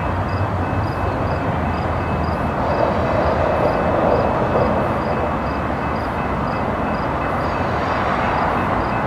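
Diesel locomotives hauling a loaded coal train approach at speed, their engines droning low under a steady rumble of wheels on rail that grows slightly as they near.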